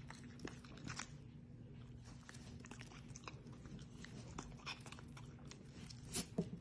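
Faint, irregular crisp clicks and crunches of chewing over a low steady hum, a little louder in a short run near the end.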